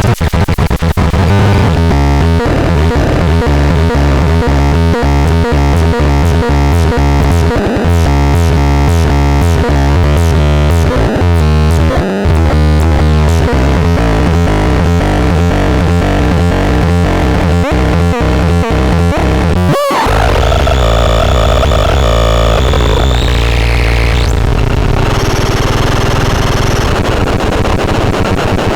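Harsh electronic synthesizer noise: a dense, fast stuttering pattern of buzzing tones, which breaks off abruptly about two-thirds of the way through into sustained droning tones with a sweeping pitch.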